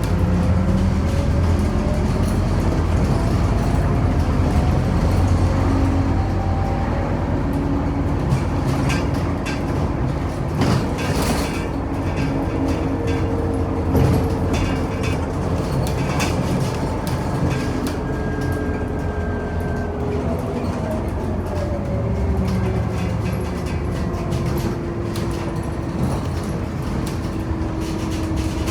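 Scania OmniCity city bus under way, heard from inside: a steady low diesel drone with drivetrain whine that rises and falls as the bus speeds up and slows, and scattered knocks and rattles from the body.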